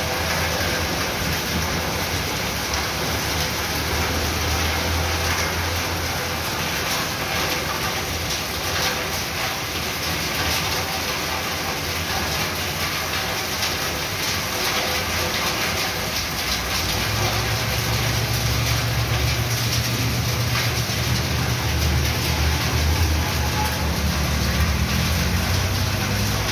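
Heavy rain pouring onto pavement and asphalt: a loud, steady hiss dense with the patter of drops. A low steady rumble runs underneath and grows stronger a little past halfway.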